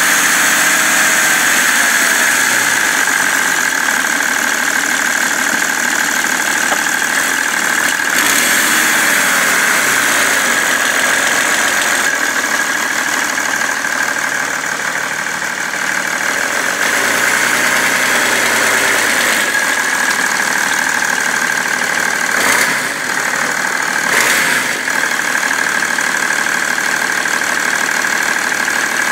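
BMW 330d E91's straight-six diesel engine idling steadily with a knocking sound, which appeared after the main and EGR thermostats were replaced. Two brief louder noises come late on.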